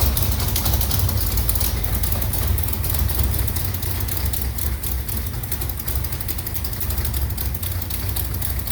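Slover 305 engine running steadily on a test stand, firing rapidly and evenly.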